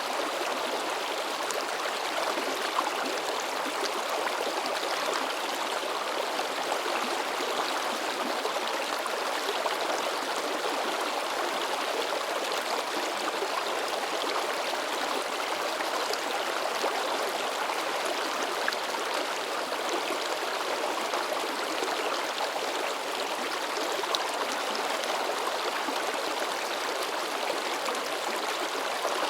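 A shallow river babbling and splashing over rocks, a steady even rush of water with small splashes and gurgles throughout.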